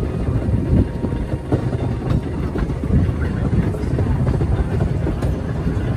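Schynige Platte rack railway train running: a steady low rumble with scattered clicks and knocks from the wheels and track.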